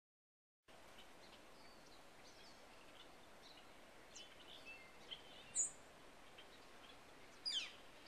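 Songbirds chirping and calling over a faint steady outdoor hiss, starting about a second in after silence. A sharp high call comes midway, and the loudest call, sliding down in pitch, comes near the end.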